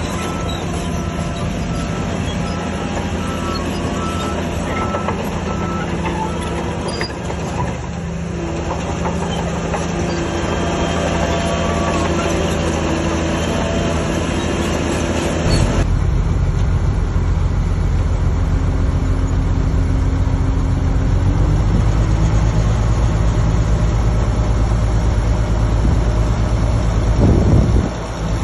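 Diesel engines of heavy earthmoving machinery running steadily. About halfway the sound switches abruptly to a deeper, louder engine note.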